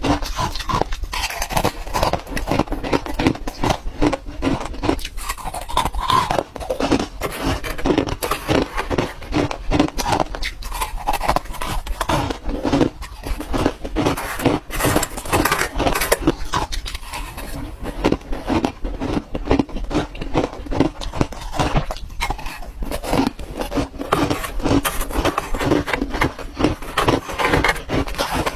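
Ice being bitten and crunched in the mouth close to the microphone, a dense, unbroken run of sharp cracks and crunches.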